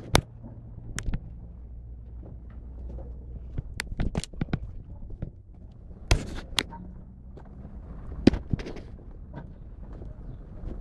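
Scattered sharp knocks and clicks at uneven intervals, the loudest near the start, about six seconds in and about eight seconds in, over a steady low hum.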